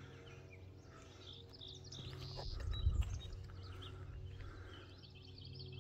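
Small wild birds chirping, with a quick high trill near the end, over a steady low rumble that swells briefly about three seconds in.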